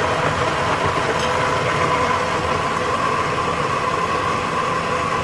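Countertop blender motor running steadily as it blends fruit and banana into a smoothie, a loud even whine with a constant hum.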